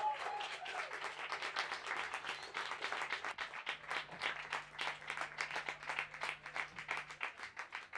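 Audience applauding after a song, a dense patter of clapping that thins out toward the end. A faint steady low hum sits underneath and stops shortly before the end.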